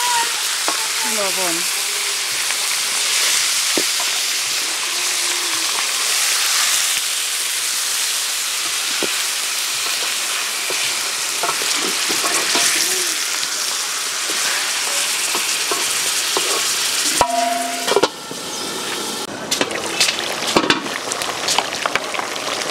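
Goose meat and potatoes sizzling as they fry in a large metal pot, stirred with a wooden spatula. About three-quarters of the way through, the sizzle drops suddenly to a quieter hiss with scattered ticks and taps.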